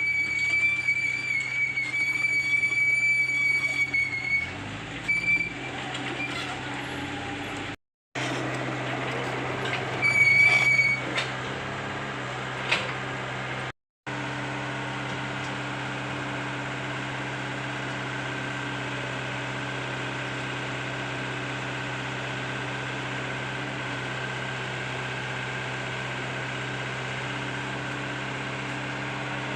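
Komatsu PC75UU excavator's diesel engine running steadily under work, with high metallic squeals over the first few seconds and again briefly around ten seconds in.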